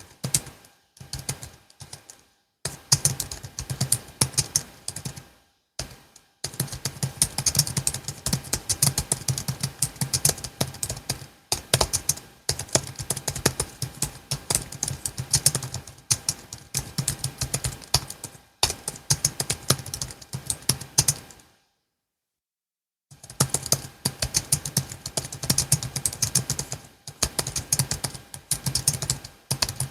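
Typing on a Logitech MX Keys S low-profile scissor-switch keyboard: fast runs of key clicks in bursts, broken by short pauses and a silence of about a second and a half about three quarters of the way through.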